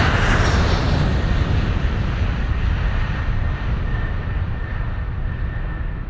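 Train running with a steady low rumble and hiss, the hiss dying away over the few seconds and a faint thin tone coming in about two-thirds of the way through.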